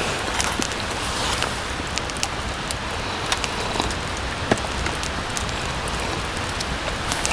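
Steady rain falling, with many scattered individual drops ticking sharply on the fabric of a tent.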